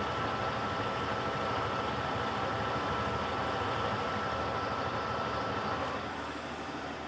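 Electrolux LTC15 top-loading washing machine running steadily, a constant whine over an even rush; the whine stops about six seconds in and the sound gets a little quieter.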